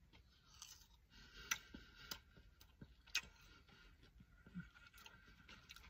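Faint chewing of a crispy chicken fry, with a few scattered soft clicks and crunches.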